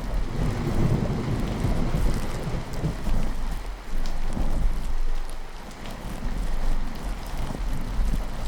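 Steady rainfall with low, rolling thunder that swells and fades several times.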